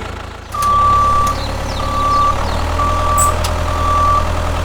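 Vehicle reversing alarm beeping about once a second over a low engine rumble, starting about half a second in.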